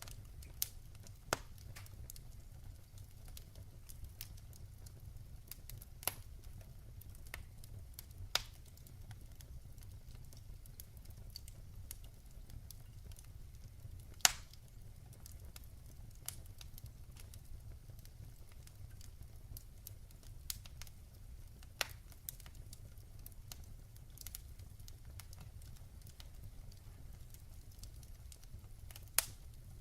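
Log fire crackling in a fireplace: scattered sharp pops and snaps at irregular intervals over a low, steady rumble of the flames. The loudest pop comes about halfway through.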